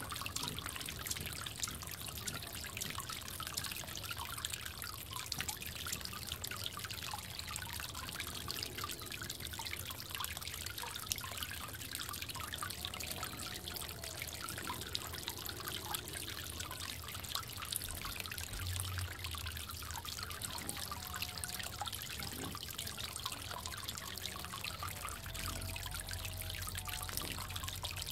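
Water trickling steadily in a bird bath, with a constant patter of small drips and splashes.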